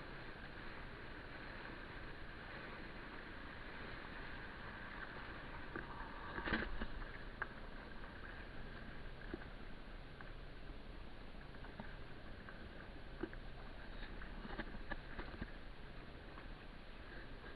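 Steady water noise of a pedal kayak moving through choppy water, with a few small clicks and one louder splash about six and a half seconds in.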